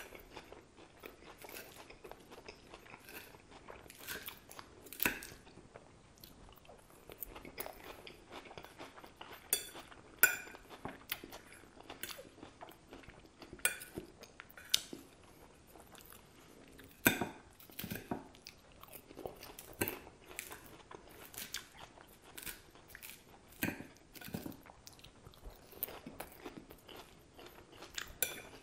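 Close-miked chewing of crisp iceberg-lettuce salad: wet crunching bites at irregular intervals, mixed with a metal fork clinking and scraping on a ceramic plate as forkfuls are speared.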